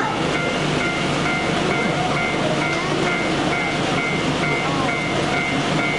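A train running past with a steady rumble. Over it, a level-crossing bell rings in an even beat of about three rings a second.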